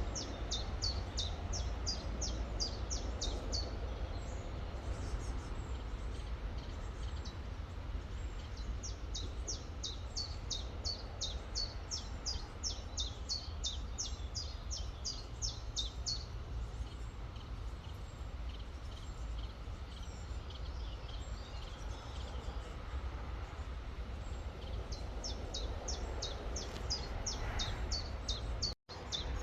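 A songbird singing in runs of quick, high, falling chirps, about three or four a second, in three bouts with pauses between, over the steady rushing of a river. The sound cuts out for a split second near the end.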